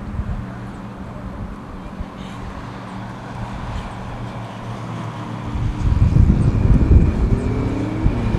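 HondaJet Elite's twin HF120 turbofans whining steadily at low taxi power, with strong wind buffeting the microphone. About six seconds in, a louder low rumble with rising tones builds.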